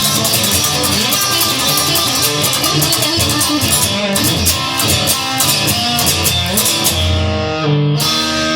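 Instrumental blues-rock music: electric guitar playing over drums. Near the end the drums stop and a guitar chord is held, ringing out.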